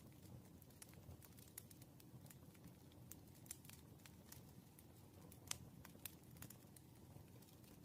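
Faint, irregular small clicks and taps of a pen writing on paper at a desk, over a low steady room hum, with one sharper tap about five and a half seconds in.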